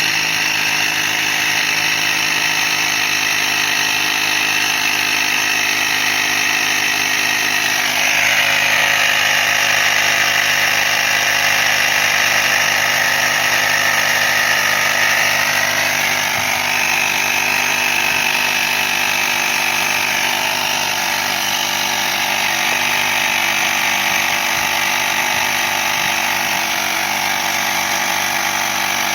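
Portable air compressor running steadily as it inflates a bicycle tyre, with a shift in its tone between about eight and sixteen seconds in.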